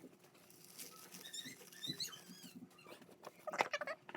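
Hands handling a small cardboard doll box and its plastic bags: light rustling and small clicks, with a few brief high squeaks about a second and a half in. The rustling and clicking get louder near the end.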